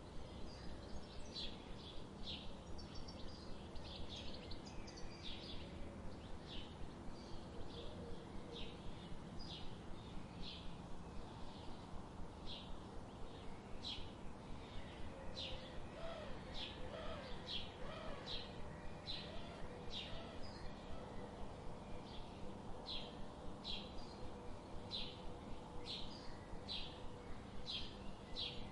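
Songbirds chirping, short high chirps repeated about once or twice a second, over a faint steady low background.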